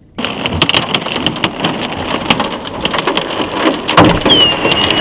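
Small hailstones pelting down in a dense, continuous clatter of sharp impacts, with the odd louder strike from a bigger 2–3 cm stone. It starts abruptly, and a thin whistling tone comes in near the end.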